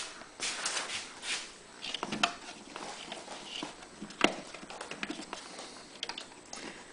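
Irregular hand-work noises from fitting a hose clamp onto a rubber fuel hose: small metal clicks, taps and rustles, with two sharper clicks about two and four seconds in.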